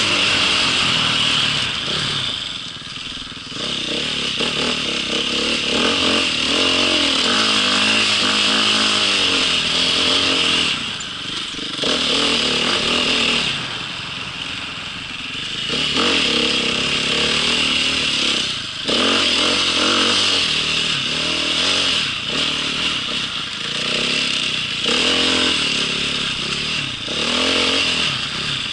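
Motocross bike engine revving up and easing off again and again, its pitch rising and falling, with several short dips in loudness.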